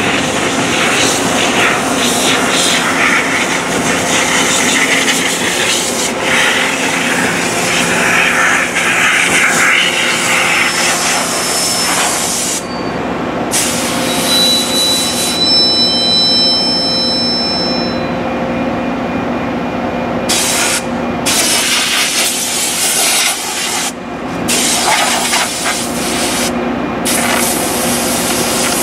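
Loram rail grinder train rolling slowly past at close range: its cars and grinding equipment make a loud, steady rushing noise. A thin high whine comes in briefly around the middle.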